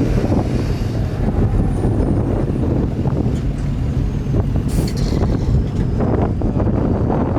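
Strong wind buffeting the microphone, a steady low rumble, with vehicle engine noise mixed in.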